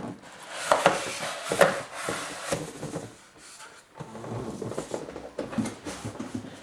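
Handling noise from a PC case being opened and prepped: irregular knocks, scrapes and sliding of panels and parts, with the sharpest knocks in the first two seconds.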